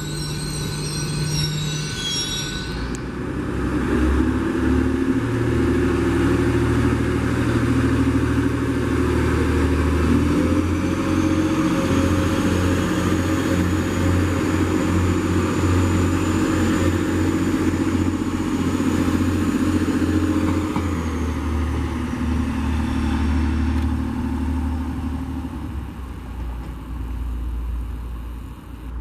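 A high squeal for the first two or three seconds, then a TransPennine Express Class 185 diesel multiple unit passing close by, its diesel engine droning low and its wheels rumbling over the rails. A faint high whine comes in over the middle of the pass, and the sound eases off as the train moves away.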